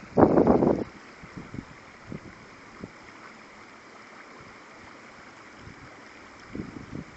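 Rainwater runoff flowing, a steady faint rushing. Wind buffets the microphone loudly in the first second and briefly again near the end.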